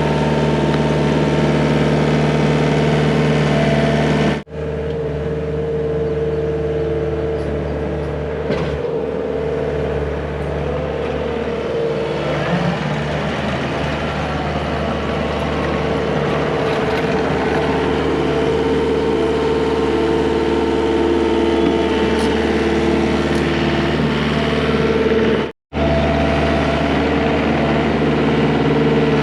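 Excavator's diesel engine running steadily under work, backfilling the water-line trench. The sound cuts out for a moment twice, about four seconds in and near the end.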